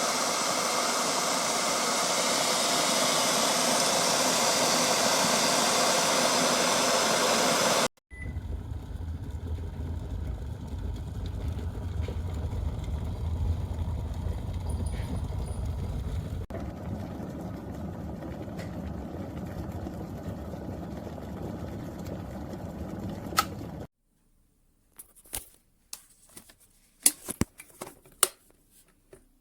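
Glass electric kettle heating water: a steady rushing roar, which cuts about 8 s in to a deeper rumbling one that stops abruptly near 24 s. A few sharp clicks and knocks follow near the end.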